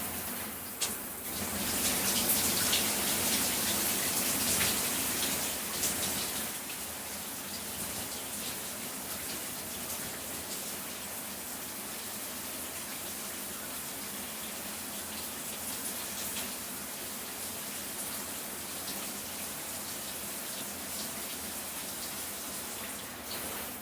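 Shower running, its spray falling on a person's body: a steady hiss of water, louder for a few seconds near the start, with small irregular splashes.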